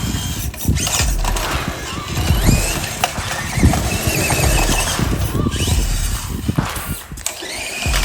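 Electric motor of a mini RC monster truck whining up in pitch as the throttle is opened, several times, over the thumps and tyre noise of the truck bouncing across rough ground.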